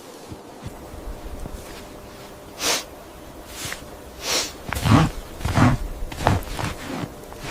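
Footsteps: four short, evenly paced steps about two-thirds of a second apart, after two brief breathy hissing sounds.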